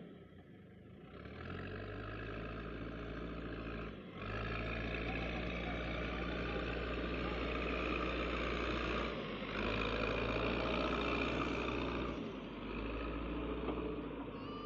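Heavy diesel engine running loud and steady, with short breaks about four, nine and twelve seconds in.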